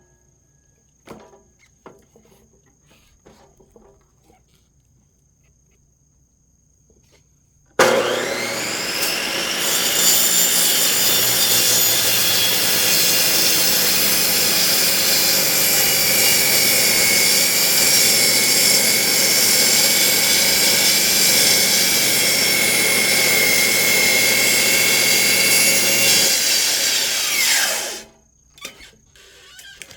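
A high-speed cut-off saw starts about a quarter of the way in, spinning up with a rising whine, and runs loud and steady while cutting through firewood for about eighteen seconds, then is switched off and winds down with a falling whine. Before it starts there are a few light knocks, as of wood being handled.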